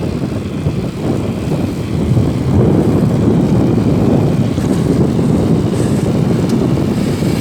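Wind rumbling over the microphone while riding an electric bike: a loud, steady low rumble with no engine note, a little louder from about two seconds in.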